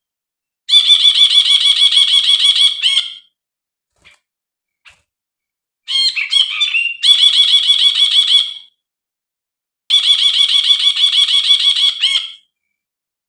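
Brinji, a bulbul, calling: three loud, fast pulsing trills of about two and a half seconds each, with short pauses between them. The second trill opens with a brief, more varied note.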